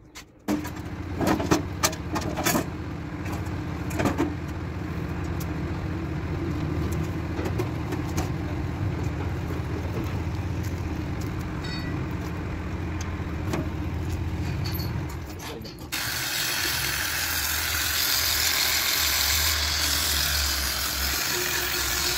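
A motor vehicle engine starts with a few clicks and knocks, then runs steadily with a low hum. About two-thirds of the way through, a louder, even hissing rush of noise takes over above a lower rumble.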